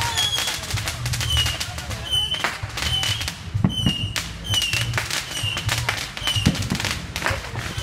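Consumer fireworks crackling and popping in a dense, irregular string of sharp cracks. A short high chirp recurs about once a second behind them.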